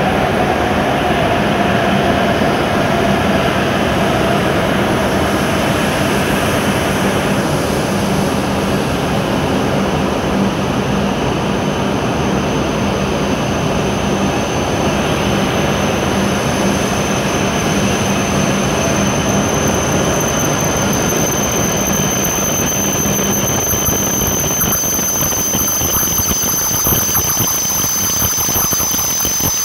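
E7 series Shinkansen train rolling slowly in along the platform as it brakes to a stop, with a steady rush of running noise. A whine falls in pitch over the first several seconds, and a high, steady squeal comes in about two-thirds of the way through.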